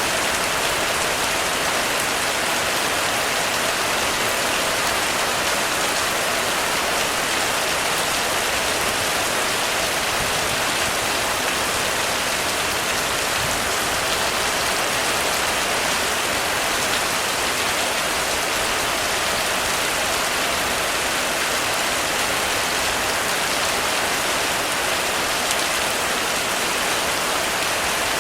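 Heavy rain falling steadily on a roof: an even, unbroken hiss of drops with no thunder.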